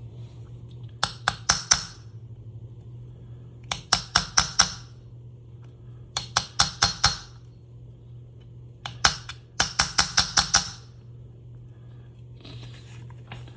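Brass punch struck to tap a ball bearing down into its seat in the tape machine's spooling-motor housing, the bearing not yet fully seated: four bursts of quick, ringing metallic taps, each of several strikes, with pauses between. A steady low hum runs underneath.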